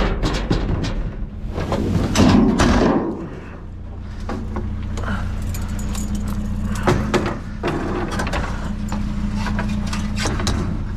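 Scavenged junk being picked through and handled: irregular clattering, knocks and rustling, with a louder scraping, rustling stretch about two seconds in, over a steady low hum.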